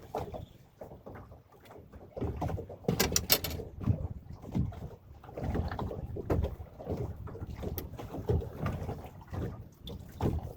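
Wind rumbling on the microphone aboard a small boat, coming in uneven gusts, with water lapping at the hull. A quick cluster of sharp clicks comes about three seconds in.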